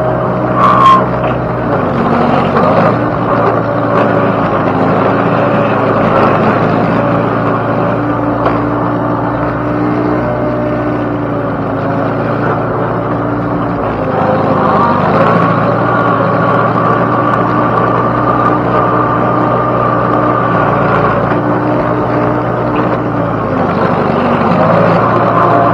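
Engine of the rig loading round hay bales, running steadily with its pitch shifting as the load changes, dipping briefly and picking back up about halfway through. A sharp knock comes about a second in.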